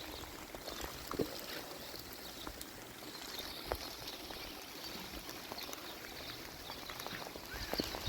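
Steady rain: an even hiss of falling water with scattered small taps and drips.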